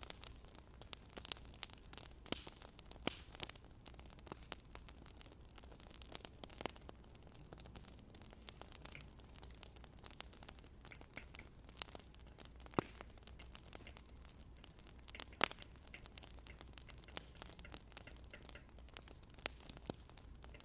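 Wood fire crackling: irregular sharp pops and snaps, a few louder than the rest, over a low steady hiss.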